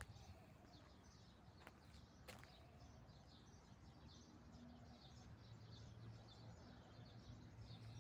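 Faint outdoor ambience with small birds chirping over and over in short, high notes. A low steady hum comes in about halfway through, and two light clicks sound about two seconds in.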